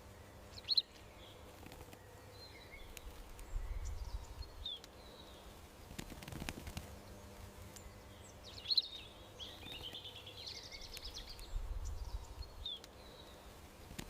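Small garden songbirds chirping on and off over a steady outdoor background, with a longer burst of twittering about ten seconds in. A soft low rumble comes twice.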